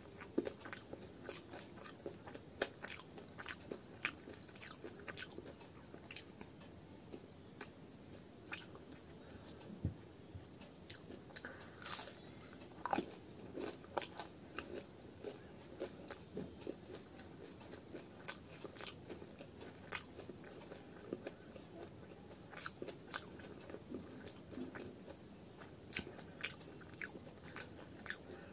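A person chewing fried muli ki kachori, a radish-stuffed deep-fried pastry, close to the microphone: many small, irregular clicks of the food breaking up and the mouth working, with no words.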